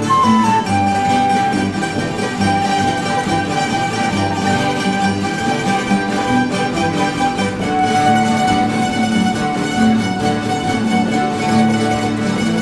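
Instrumental music from a bailinho band, plucked strings keeping up a steady accompaniment under a held melody line.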